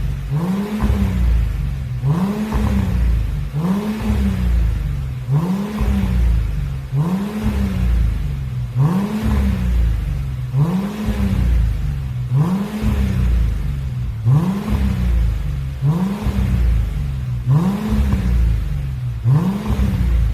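Mercedes-Benz CLS350 engine revved over and over through a custom JSR valved exhaust: about thirteen throttle blips, one every second and a half or so, each rising in pitch and falling back.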